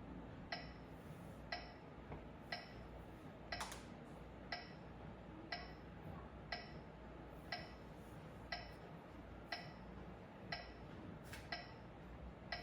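Soft, steady ticking about once a second, with a piano note dying away at the start.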